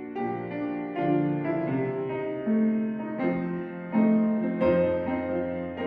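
Gentle piano music playing slow, sustained notes.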